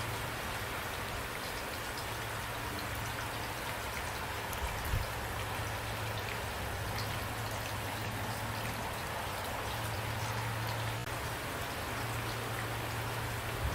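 Steady heavy rain falling, with individual raindrops ticking on a surface over a constant wash of noise. There is a brief low knock about five seconds in.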